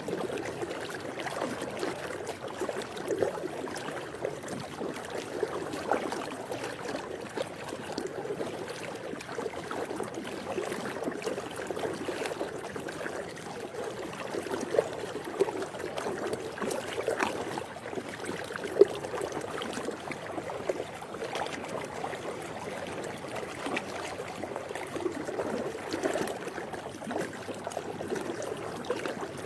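Swimming-pool water trickling and lapping continuously, with small sharp splashes now and then, the clearest about halfway through.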